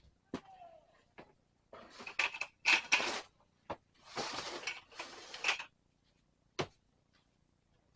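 A few sharp knocks, with two longer bouts of rustling or scraping in the middle, the second lasting about a second and a half.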